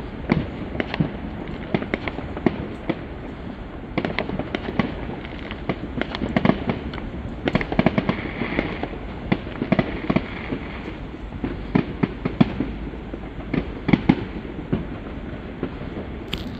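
Bonfire Night fireworks going off in a dense barrage: many sharp bangs and crackles in quick succession, overlapping one another.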